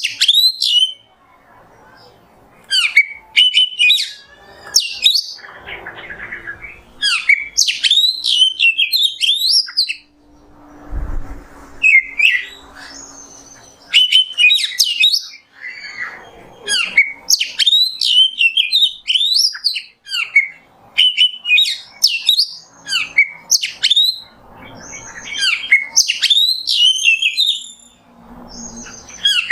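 Oriental magpie-robin (kacer) singing a loud, rapid series of varied whistled phrases, high notes sliding quickly up and down, delivered in short bursts separated by brief pauses.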